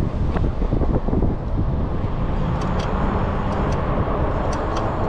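Wind buffeting the microphone and road noise while riding an e-bike, steady throughout, with a few faint light clicks in the second half.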